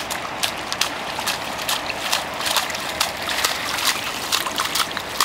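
Steady rain falling, with irregular sharp spatters of water close by, several a second.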